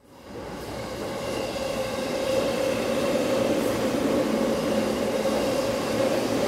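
Diesel train running on the line. Its noise comes in and builds over the first two seconds, then holds steady with a droning hum.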